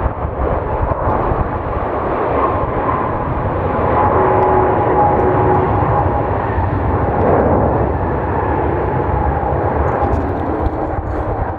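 Jet airliner's engines running loud and steady, a deep rumble with faint whining tones over it, swelling a little midway.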